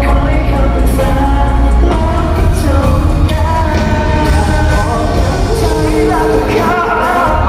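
Live pop band playing loudly through a hall PA system, with a singer's voice over heavy, steady bass.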